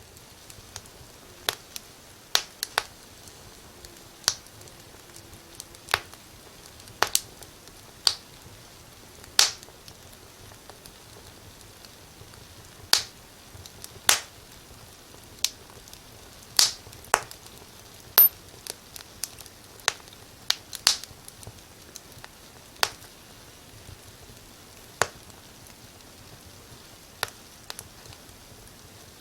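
Wood fire crackling in a fireplace: sharp, irregular pops, about one a second, over a faint steady hiss.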